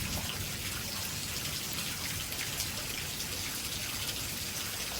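Heavy thunderstorm downpour, a steady hiss of rain with scattered drops pattering on surfaces.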